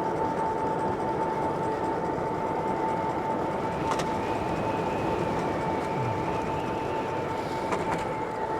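Mooncool CG2 electric cargo bike under way: a steady whine from its electric motor over a constant rush of wind and tyre noise, with a second, higher whine wavering in from about four seconds in and a few faint clicks.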